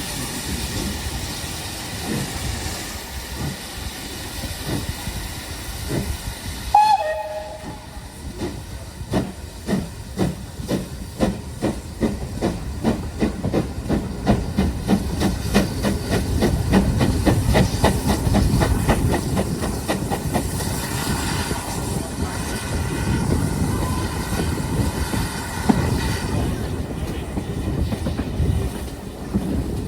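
Steam locomotive 5541, a GWR small prairie tank engine, hissing steam, then giving one short whistle that drops in pitch about seven seconds in. It then pulls away, its exhaust beats coming steadily quicker as the train gathers speed.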